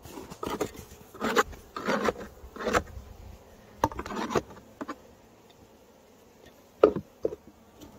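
Honeybees buzzing in an opened hive, the sign of a live colony. Several short scrapes and knocks from wooden hive parts being handled: a cluster in the first half and two more near the end.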